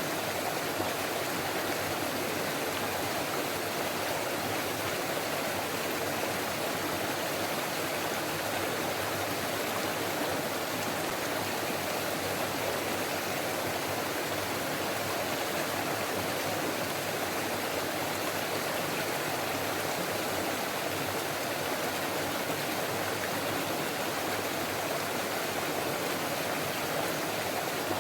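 A forest stream flowing, a steady rush of water with no let-up.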